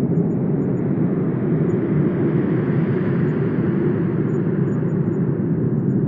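Wind blowing steadily with a deep rumble, rising into a stronger gust about halfway through and easing off toward the end.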